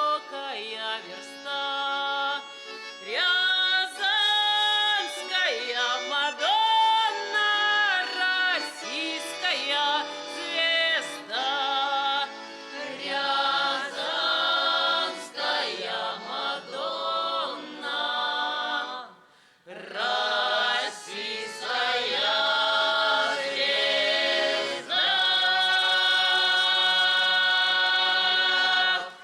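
A group of voices singing a song, with a short break about two-thirds of the way through. It ends on a long held note.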